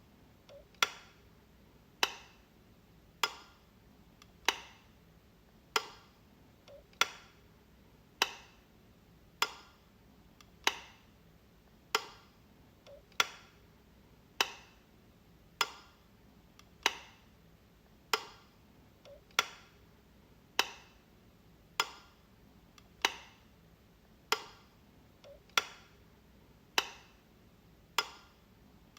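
Light switch being flicked over and over: a sharp click about every one and a quarter seconds, with a faint softer click just before every fifth one or so.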